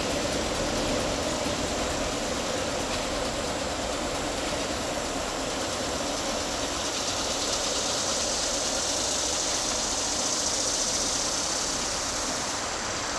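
Diesel railroad locomotive engines running steadily as the uncoupled locomotives move past, with a hiss coming up in the second half.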